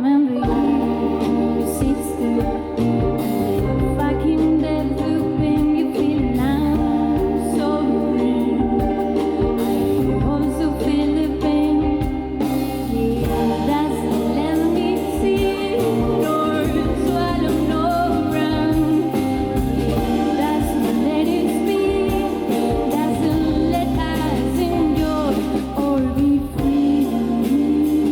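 Live band playing a song with a sung lead vocal over bass and drums; the cymbals fill in more fully about halfway through.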